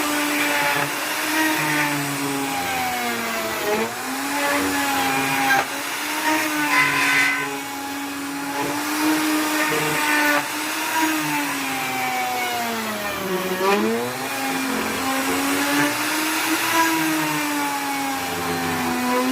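Electric hand planer running continuously, a steady motor whine whose pitch sags briefly about four seconds in and more deeply a little past halfway, as the cutter takes load in the wood.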